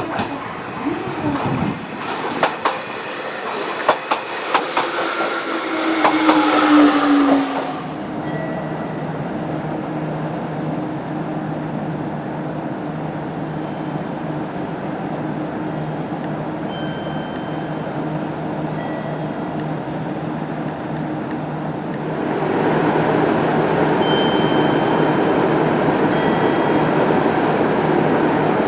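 JR Kyushu 817 series electric train: wheels clicking over rail joints while the inverter's whine falls in pitch as it slows. About eight seconds in, the sound changes abruptly to a steady hum, which grows into louder, even running noise a little after twenty seconds.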